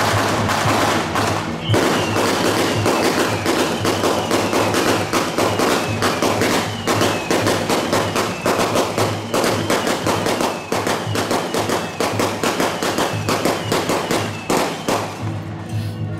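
A string of firecrackers crackling in rapid, irregular bangs over percussion-led temple procession music. The crackling dies away about fifteen seconds in while the music carries on.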